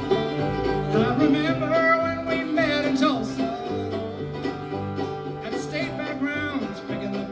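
Live bluegrass band playing an instrumental introduction: banjo and guitar picking under a lead melody that slides and wavers in pitch.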